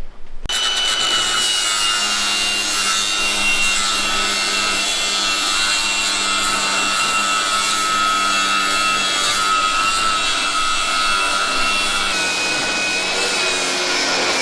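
Angle grinder cutting through steel welds on a truck's engine cross member. It starts about half a second in and runs on steadily with a high whine, which drops a little in pitch about twelve seconds in.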